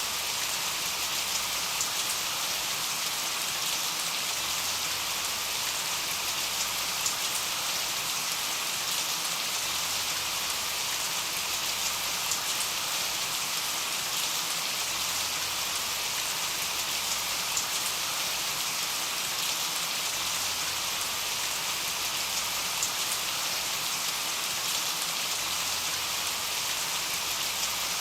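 Steady rain: an even hiss with scattered ticks of individual drops, unchanging throughout.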